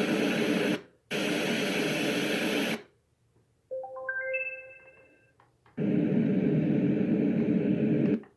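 White noise sound machine playing a steady rushing water-like noise track that stops and restarts twice as sounds are switched. In the quiet gap between them, a short rising run of about eight electronic beep notes plays.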